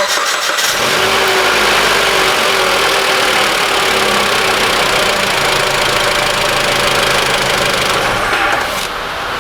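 Mitsubishi ASX 1.8-litre petrol four-cylinder engine cranked by the starter, catching within the first second and idling steadily. It runs without the rattle that the worn alternator overrunning-clutch pulley used to make; that pulley has just been replaced.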